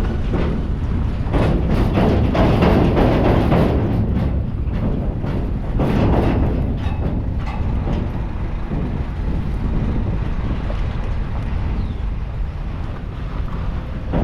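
Steady low vehicle rumble with bouts of rattling and clattering, heaviest in the first half.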